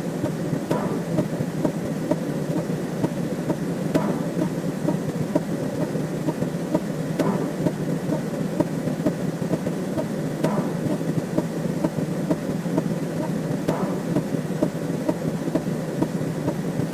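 Synthetic sound-effect track: a steady, dense rumble of rapid small clicks that sounds like rain or distant thunder, with a slightly stronger accent about every three seconds.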